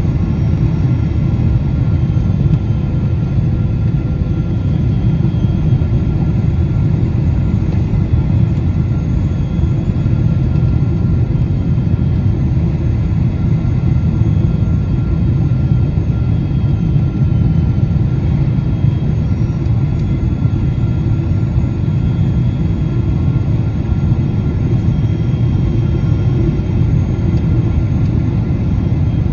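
Cabin noise inside a Boeing 777-200 airliner: a steady low rumble of the engines and airflow, with faint steady whining tones above it.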